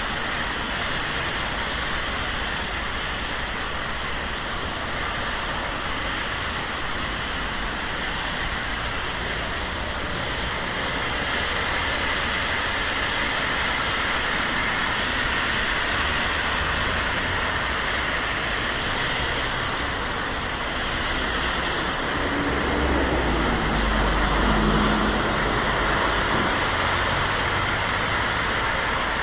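Steady rain and the hiss of city traffic on wet roads. Near the end a vehicle passes close, its low engine rumble swelling and then fading.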